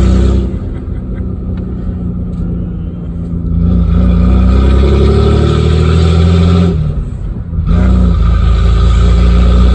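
Nissan truck engine running loud with its muffler and catalytic converter removed, driving under power. It eases off about half a second in, pulls with a rising note from about four seconds in, drops away briefly near seven seconds, then pulls again.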